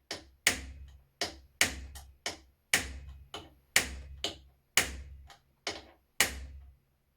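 A hammer striking metal about a dozen times, roughly two blows a second, each blow ringing briefly; the strikes stop about six and a half seconds in.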